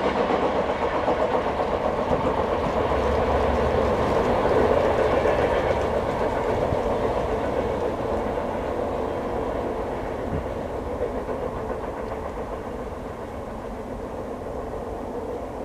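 Tail end of an intermodal freight train rolling away on the rails, its wheel noise fading steadily as it recedes.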